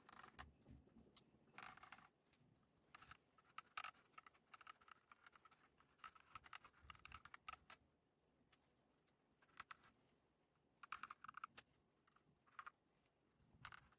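Quiet typing on a mechanical keyboard with Akko CS Lavender Purple tactile switches and HyperX PBT pudding keycaps. The keystrokes come in irregular runs of clicks separated by short pauses.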